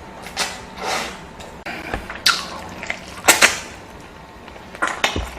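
Close-miked wet eating sounds: a person chewing and slurping food in a series of short, wet smacks. The loudest comes about three seconds in.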